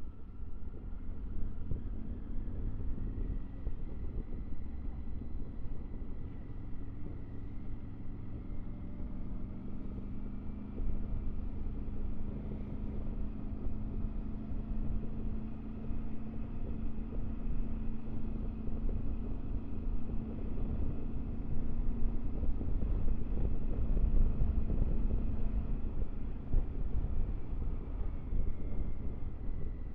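Triumph Tiger 900 GT Pro's three-cylinder engine running while riding, over a steady rumble of wind and road noise. The engine note climbs about ten seconds in, holds, then drops away near the end.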